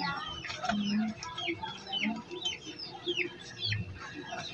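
Small birds chirping over and over, each chirp a quick high note sliding downward, with a few faint low knocks underneath.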